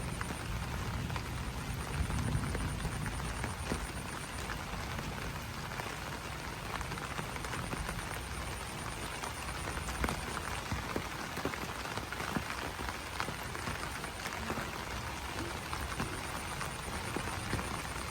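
Steady rain pattering on broad banana leaves, with many individual drops tapping sharply over a continuous rain hiss.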